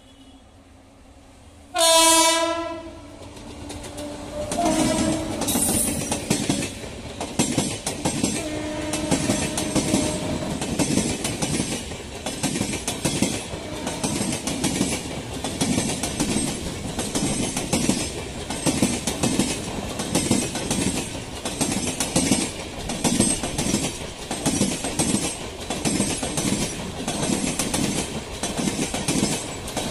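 Indian Railways train: the locomotive horn gives one short, loud blast about two seconds in, then the train passes with its wheels clattering over the rail joints in a steady, even rhythm.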